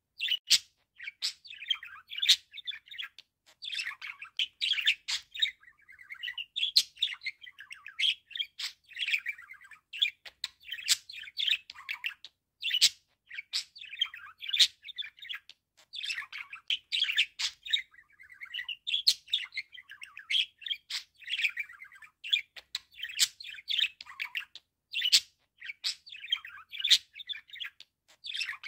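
Budgerigar warbling continuously: a rapid, chattering run of chirps, squeaky notes and sharp clicks with only brief pauses.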